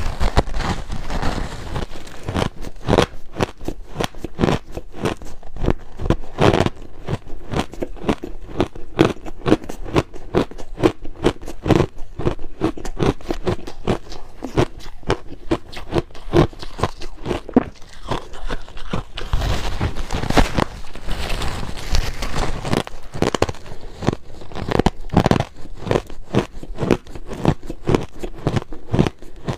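Close-up crunching and chewing of crushed ice: rapid, irregular sharp crunches as the ice is bitten and ground between the teeth.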